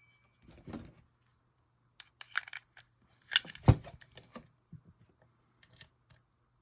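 Small metal parts of a fishing reel clicking and tapping as they are handled and fitted during reassembly, with a louder knock about three and a half seconds in.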